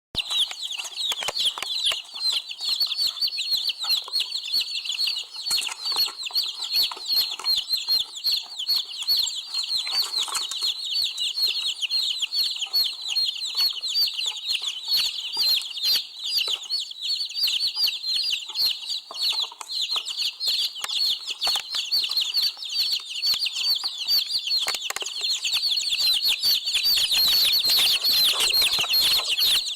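Many small birds chirping at once in a dense, unbroken chorus of short high chirps that overlap continuously, growing a little louder near the end.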